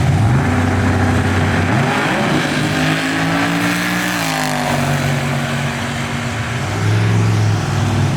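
Drag car engine running hard, its pitch climbing then dropping and holding steady, and growing louder again near the end.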